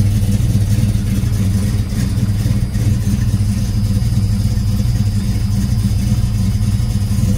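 A car's engine idling steadily, heard from inside the cabin.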